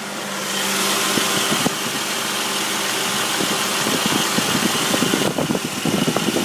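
Jeep 4.0 straight-six idling with an irregular light rattle that sounds like marbles, a noise that comes only at idle and goes away when revved; a mechanic suggested a lifter. A cooling fan runs steadily over it.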